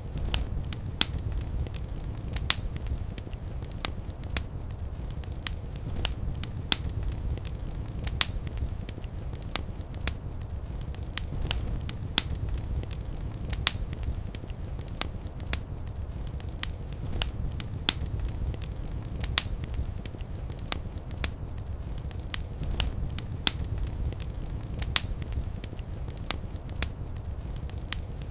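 Fire in a fireplace crackling, with frequent irregular sharp pops over a steady low rumble of flames.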